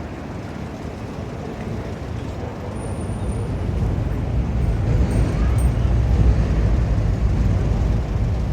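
Low rumble of a passing motor vehicle, growing louder about four seconds in.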